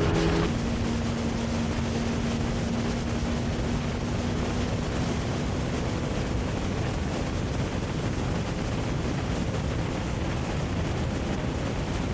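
Suzuki Hayabusa motorcycle cruising on the highway, heard from on board. The engine is a faint steady hum under heavy wind rush on the microphone. About half a second in, the engine note drops from a higher pitch to a lower, steady one.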